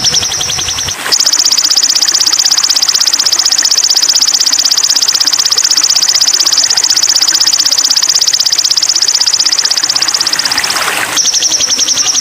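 Recorded song of a spiderhunter (sogok ontong) played as masteran: a long, very high, fast trill of rapidly repeated notes. About a second in it switches abruptly to a higher, louder trill that runs for about ten seconds before switching back.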